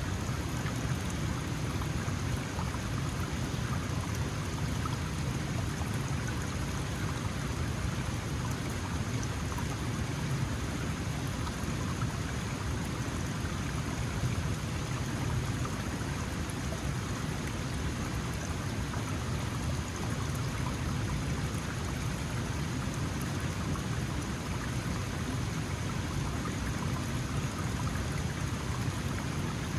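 Small mountain stream flowing and splashing over rocks, a steady, unbroken rush of water.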